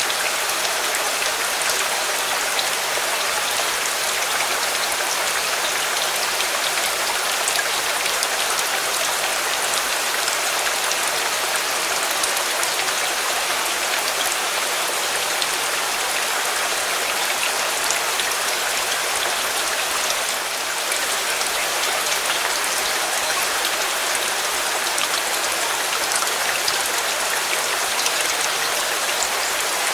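Steady heavy rain falling, an even hiss of drops hitting a surface, with scattered small ticks of individual drops.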